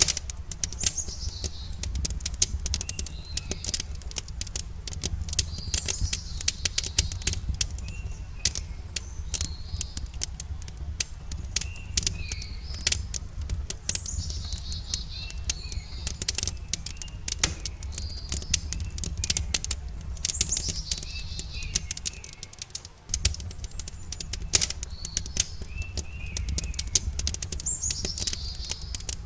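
Campfire crackling with dense, rapid pops over a low steady rumble, while a songbird sings a short falling phrase about every six or seven seconds.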